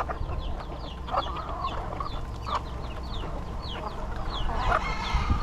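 A flock of chickens clucking, with chicks peeping over them in short, high, falling peeps, about two a second.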